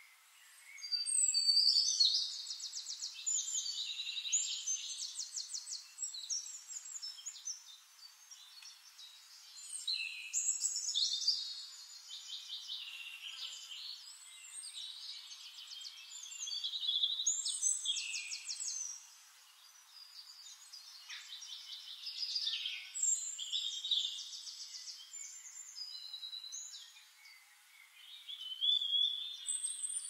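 Forest songbirds singing: phrases of rapid trills and whistles that come in bursts every few seconds, with short quieter gaps between them.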